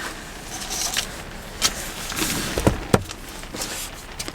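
Steady hiss of heavy rain, with a few light knocks near the middle.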